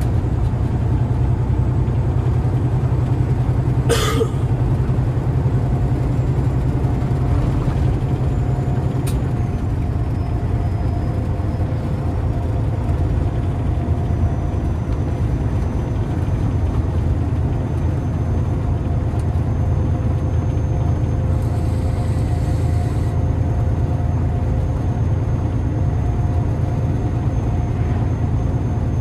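Peterbilt semi-truck running steadily down the road, heard inside the cab as a low engine drone. There is a sharp click about four seconds in and a brief hiss about three-quarters of the way through.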